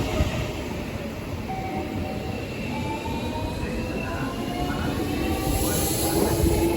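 Seibu 40000 series electric train running through the platform, a steady rumble of wheels on rails with faint gliding whines above it.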